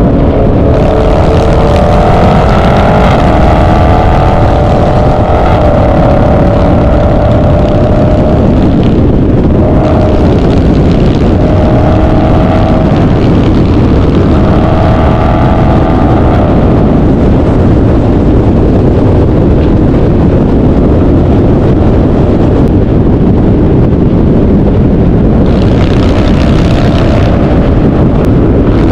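Loud V8 muscle-car engine running, its pitch climbing over the first several seconds and rising again in a few short revs, with a brighter burst of noise near the end.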